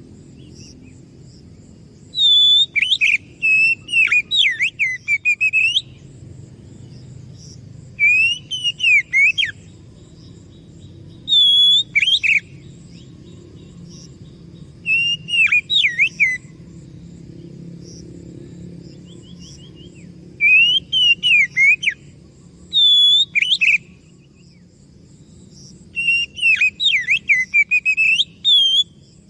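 Oriental magpie-robin (kacer) singing loud phrases of sweeping, slurred whistles, in bursts of one to three seconds separated by short pauses. A faint steady insect trill runs underneath.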